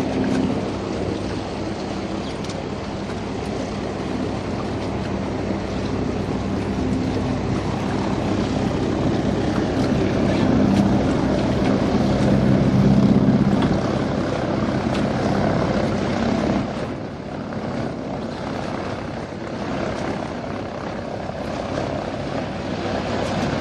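Propeller-driven floatplane taking off, its engine and propeller making a steady drone that grows louder partway through, then drops off sharply and carries on lower.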